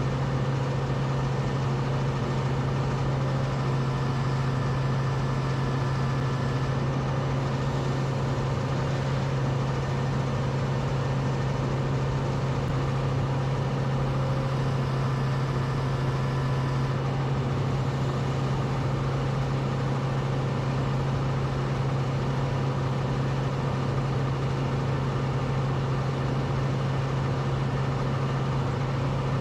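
A steady, unchanging low hum of a running motor or machine over an even background noise.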